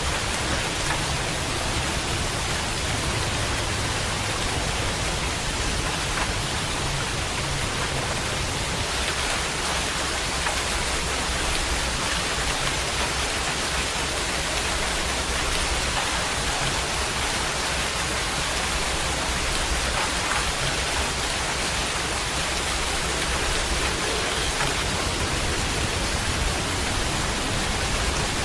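Steady heavy rain falling as an even hiss, with a low rumble in the first half and again near the end.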